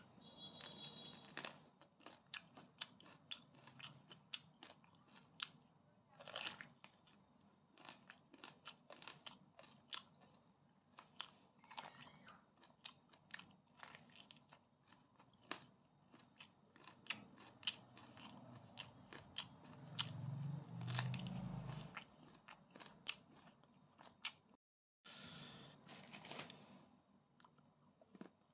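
Close-up mouth sounds of a person biting and chewing a spicy pickled chicken foot: many small irregular crunches and wet clicks as the skin and cartilage are gnawed. A brief low hum comes about twenty seconds in.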